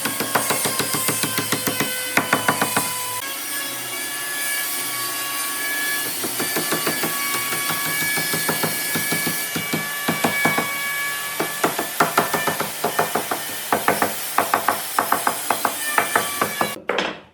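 Wood being worked with rapid, rhythmic scraping strokes, the sound of sawing or rubbing on wood, with a faint ringing over it. It cuts off abruptly near the end.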